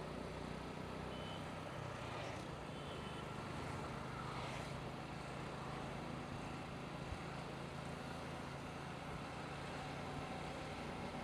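Motorcycle engine running steadily while riding, with road and wind noise. Two faint short high tones sound about a second in and again near three seconds.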